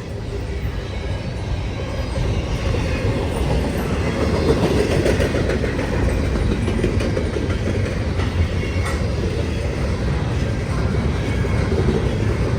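A freight train's cars rolling past with a steady rumble, their wheels clacking over the rail joints. The sound grows louder over the first couple of seconds, then holds steady.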